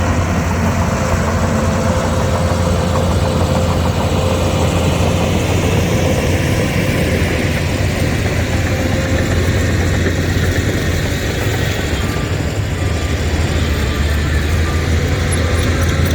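Heavy diesel engine of a Shantui crawler bulldozer running steadily at working speed, with a faint repeated beep, like a backup alarm, in the last few seconds.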